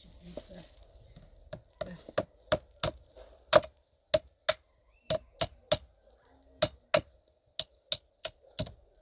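Repeated sharp hammer blows, about seventeen in twos and threes at roughly two a second, each with a short ringing note.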